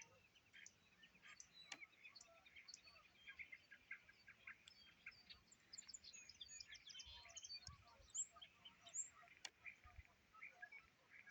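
Faint chorus of many small birds chirping and singing at once, dense overlapping short notes and trills, a morning chorus heard on waking.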